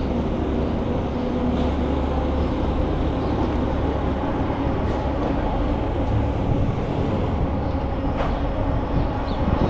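Steady rolling rumble of a bicycle ride, the tyres running over the path, with a few faint short bird chirps near the end.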